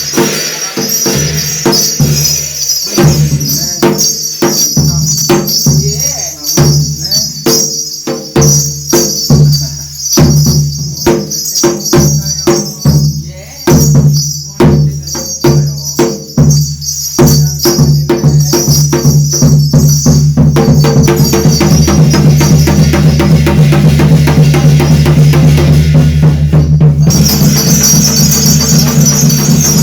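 Korean shamanic gut percussion: a drum beaten hard with jangling cymbals over it, the strokes quickening until, a little past halfway, they run together into a fast, continuous roll. The jangling cuts out for a moment near the end and comes straight back.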